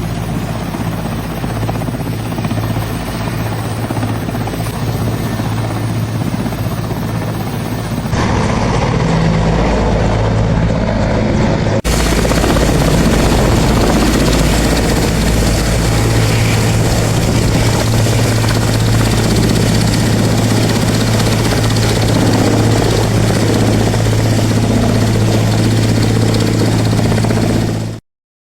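Helicopter running steadily, a constant low hum of rotor and engine. The sound changes abruptly about 8 and 12 seconds in, as between separate recordings, and cuts off suddenly near the end.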